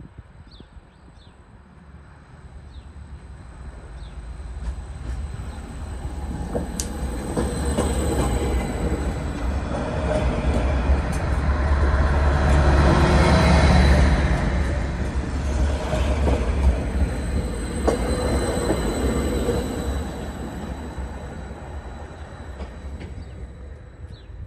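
Greater Anglia Class 755 bi-mode multiple unit, running on its diesel power packs, approaches and passes over a level crossing. Its rumble builds to its loudest about halfway through and then fades as it moves away, with a couple of sharp clicks from the wheels over the crossing and a thin high wheel squeal.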